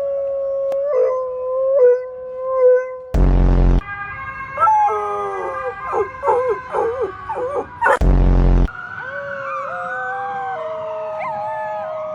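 Several dogs howling together in answer to a siren, their overlapping howls wavering and gliding in pitch. A loud, short blast cuts in twice, about three and eight seconds in.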